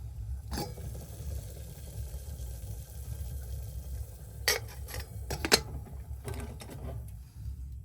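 A steady low rumble, with a few sharp clicks and knocks: one near the start and a cluster from about halfway through.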